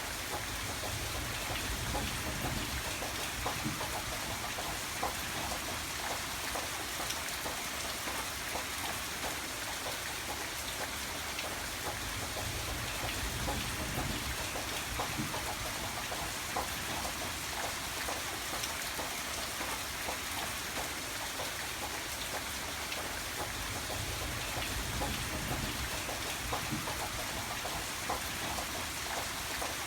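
Steady rain falling on a surface, a dense patter of drops, with a low rumble underneath that swells and fades about three times.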